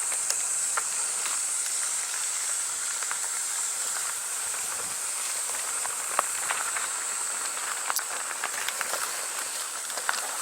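A steady high-pitched hiss, with scattered light clicks and ticks over it.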